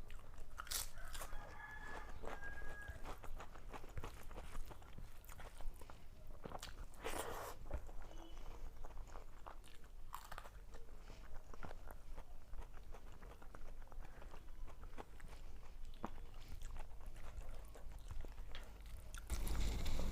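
Close-miked eating: chewing and crunching on food, with many small sharp clicks and a few louder crunches.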